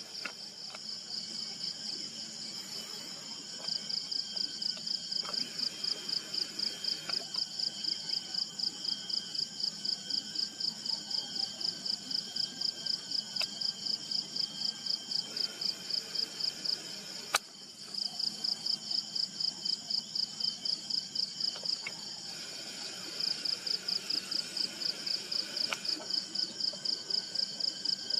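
Insects calling: a loud, high pulsing trill of about three pulses a second that breaks off briefly a few times, over fainter steady trilling of other insects. A single sharp click a little past the middle.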